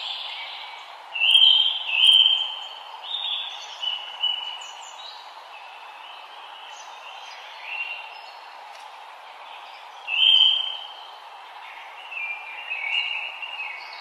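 Forest birds chirping, short repeated call notes, loudest about a second in and again around ten seconds, over a steady background rush.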